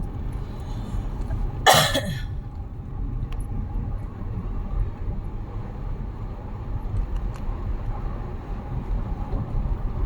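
Steady low road and engine rumble inside a moving car, with one short cough a little under two seconds in.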